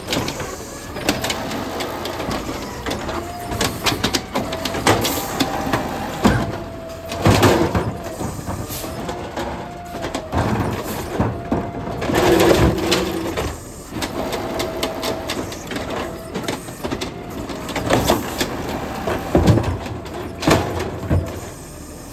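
Garbage truck at work: a hydraulic whine that rises and falls, over the running engine, with repeated clanks and bangs of metal and plastic bins.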